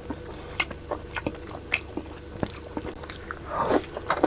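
Close-miked chewing and mouth sounds of someone eating pork sinigang: scattered short wet clicks and smacks, with a louder noisy stretch near the end.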